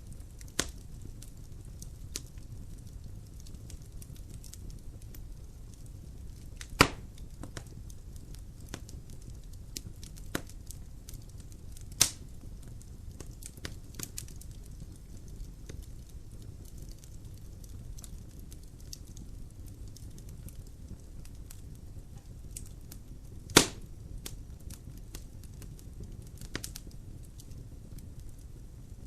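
Logs burning in a fireplace: a steady low rumble of the fire under scattered small crackles, with three loud sharp pops spread through it.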